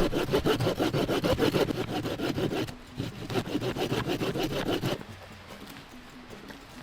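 Hand saw cutting through wood in quick, even strokes, in two bouts with a short pause about three seconds in, stopping about five seconds in.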